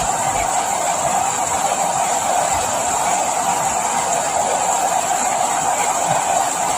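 Steady, unbroken rain, a dense hiss of falling drops with no letup.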